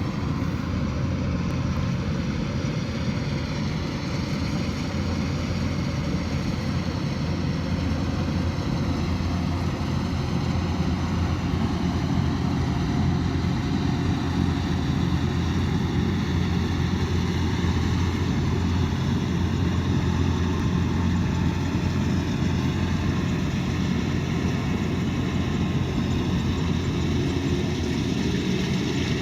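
Kubota DC108X combine harvester's diesel engine running steadily: a constant drone whose pitch drifts slightly up and down.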